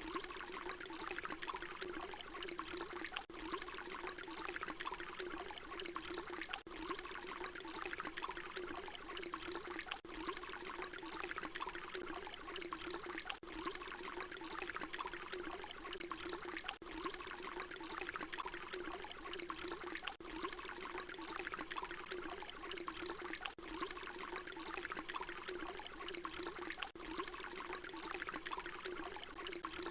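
Water pouring in a steady continuous stream, with a faint break about every three seconds where the short recording loops.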